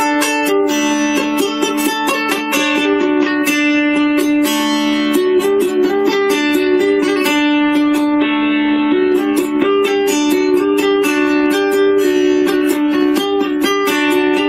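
Plucked string instrument music: quick, repeating plucked notes over a steady held drone note.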